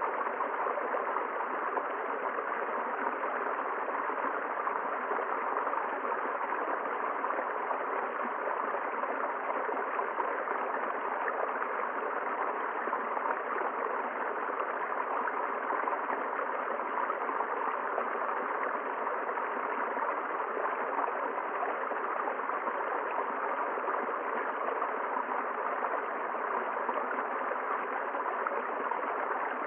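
River water flowing and gurgling in a steady, unchanging rush.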